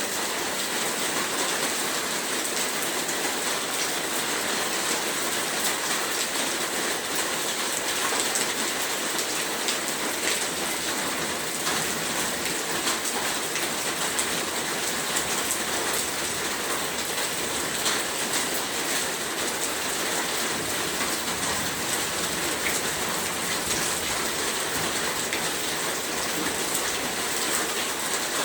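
Heavy rain falling steadily, a dense even hiss of drops hitting a surface with fine individual drop ticks throughout.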